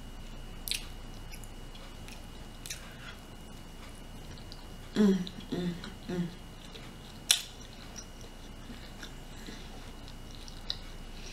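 A person chewing food close to the microphone, with wet mouth clicks now and then and three short hums of the voice about five seconds in.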